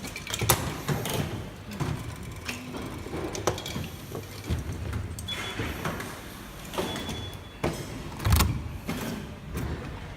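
Irregular knocks and clicks of parts being handled during hand assembly, over a low rumble, with the loudest thud about eight seconds in.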